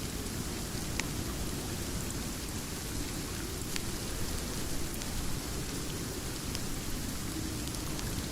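Steady rain falling, a constant even hiss with a few sharp ticks scattered through it.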